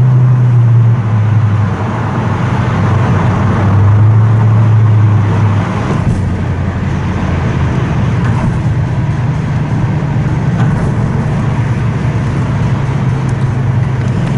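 Toyota Crown Majesta V8 running through a full straight-pipe exhaust with a Zeegs Speed Margay rear section, loud and echoing inside a tunnel. The low exhaust drone swells twice in the first six seconds under throttle, then settles into a steady cruising drone.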